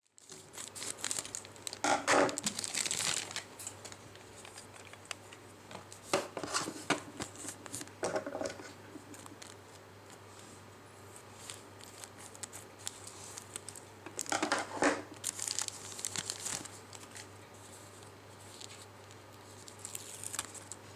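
Crinkling and rustling, as of wrapping being handled, in several short bursts about two, six to eight, fifteen and twenty seconds in, over a faint steady low hum.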